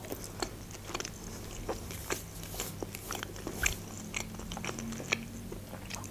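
Close-miked chewing of a fried potato wedge with the mouth closed, heard as a scattered run of small mouth clicks and smacks.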